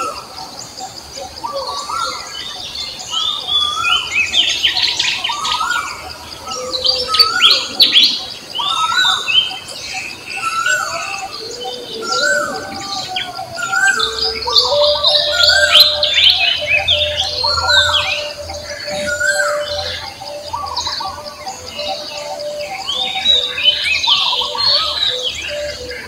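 Birds chirping and calling, many short repeated notes overlapping, with a steady low hum coming in about halfway through.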